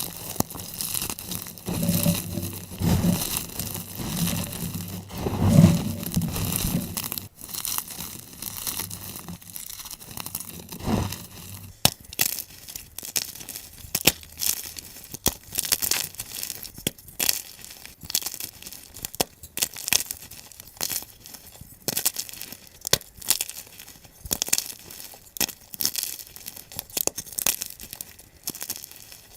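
Blocks of gym chalk being crushed and crumbled, a dense run of crunching and crackling in sped-up playback. The crunches are heavier and deeper for the first several seconds, then give way to lighter, rapid crackles.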